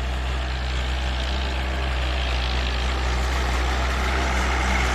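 Ford 8210 tractor's six-cylinder diesel engine running steadily under load as it pulls a four-disc plough through thick sugarcane trash. The engine sounds quiet and crisp for an old tractor, a sign it is in good condition.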